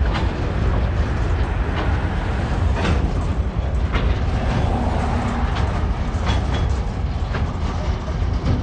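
Freight wagons of a TasRail train rolling over a rail overbridge: a steady low rumble with irregular clicks and clunks from the wheels every second or so.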